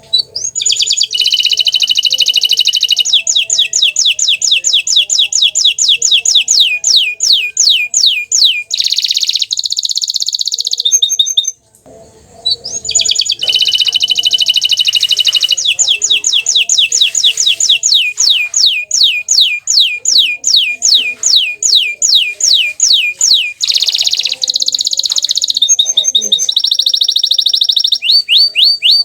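Canary (bottle-green colour variety) singing a loud, fast song of buzzing trills and long runs of quick sweeping notes at about four a second, in two long phrases with a short break about twelve seconds in.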